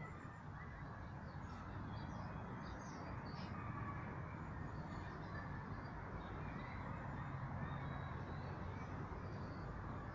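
Birds calling with short, faint chirps, scattered through, over a steady low background rumble.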